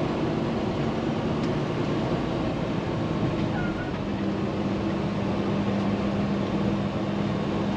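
Semi-truck's engine and road noise heard steadily from inside the cab, with a steady low hum setting in about four seconds in.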